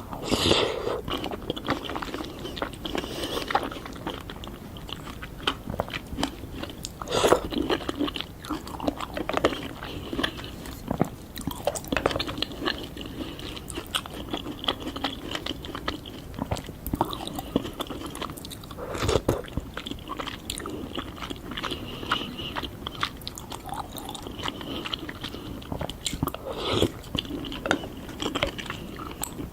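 A person biting into and chewing crunchy fruit close to the microphone: continuous wet crunching, with louder bites near the start and a few more times through the stretch.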